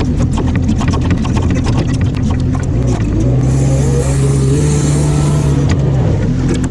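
A vehicle engine running steadily at close range, with rapid clicking and rattling throughout and a high hiss lasting about two seconds in the middle.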